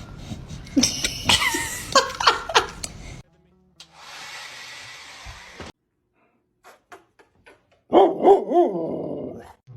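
Dogs barking and yelping in two bouts, one near the start and a louder one near the end. Between them is a steady hiss lasting about two seconds.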